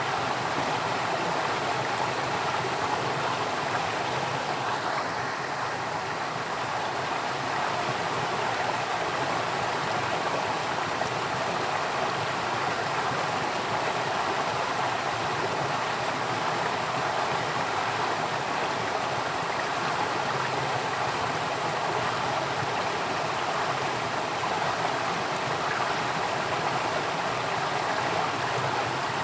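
Flowing stream water rushing steadily, an even continuous wash of noise with no breaks or distinct splashes.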